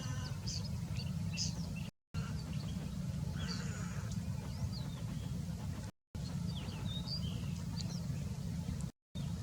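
Small birds giving short, high chirps and whistle-like calls over a steady low rumble, broken by three brief dropouts where the sound cuts out completely.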